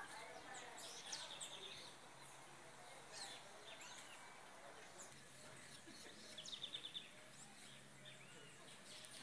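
Faint outdoor birdsong: scattered high chirps, with two short rapid trills about a second in and again near seven seconds.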